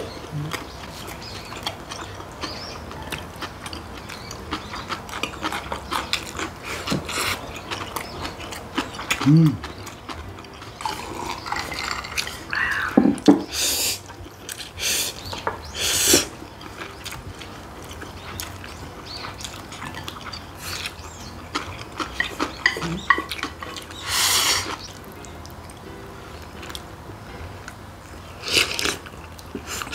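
Close-up eating sounds of two people eating ramyun and gimbap: wet chewing and small clicks of lips and chopsticks, broken by several loud slurps of ramyun noodles. The biggest slurps come past halfway and one near the end, with a couple of short hums in between.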